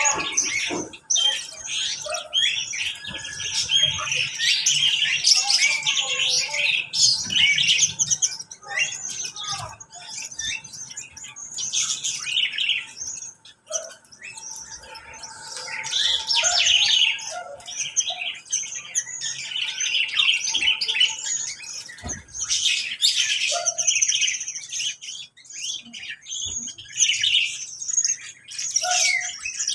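A mixed flock of caged birds chirping and chattering without pause, lovebirds among them, the high calls overlapping densely.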